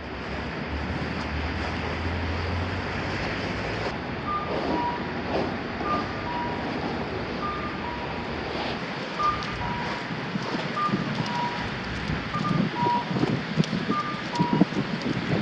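Blizzard wind blowing hard. From about four seconds in, a two-tone electronic beep, a higher note then a lower one, repeats about every one and a half seconds. A low hum runs under the first four seconds.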